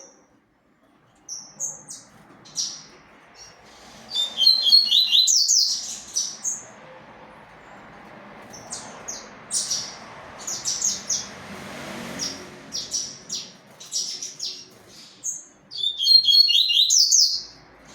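Double-collared seedeater (coleiro) singing its 'tui tui zel zel' song: scattered high, clear notes, with a fast run of notes about four seconds in and another near the end.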